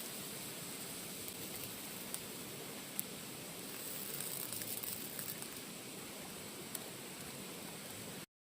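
Steady hissing background noise with a few faint clicks, cutting out completely for a moment near the end.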